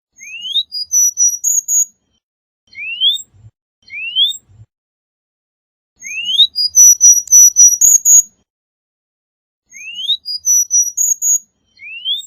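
Cuban bullfinch singing, a fast, closely spaced song. It gives six phrases, each opening with a rising whistle followed by a rapid run of thin, very high notes. The longest phrase comes in the middle and lasts about two seconds.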